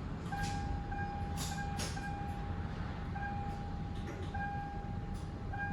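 2002 Lexus RX300 power antenna motor running as it drives the new antenna's toothed cable up after the radio is switched on: a faint steady whine, broken by short gaps, with a few clicks in the first two seconds.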